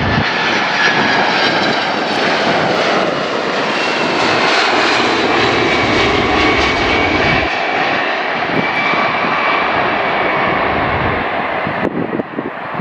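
Boeing 767 jet engines running loud and steady as the airliner passes close by, with a high whine over the jet noise that shifts slowly in pitch.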